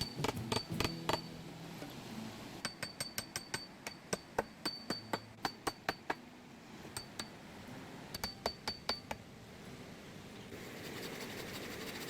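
Runs of sharp metallic taps with a brief ringing note, three to five a second, stopping and starting. This is typical of a metal hand tool being struck or tapped. A steady hiss comes up near the end.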